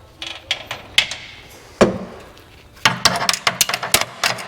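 Irregular knocks and clanks of hand tools working on a Humvee's body parts. One sharp knock comes a little under two seconds in, then a quick run of knocks and taps near the end.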